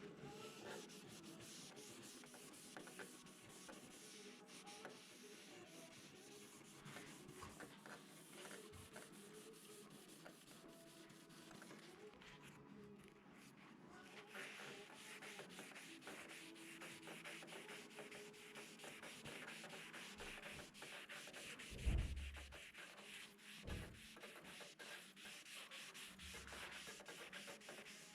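Faint hand sanding: sandpaper scratching back and forth over the fibreglass (FRP) repair on a Prius aero bumper. Two short knocks come about 22 and 24 seconds in.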